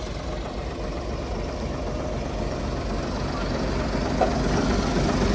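Engine of a heavy machine running steadily close by, growing gradually louder.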